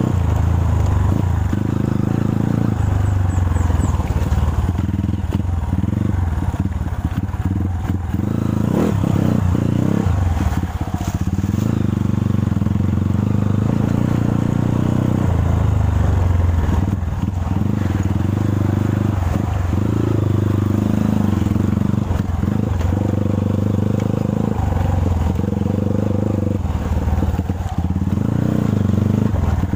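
Dirt bike engine running at low revs while the bike crawls over a rocky trail, the revs rising and falling with the throttle.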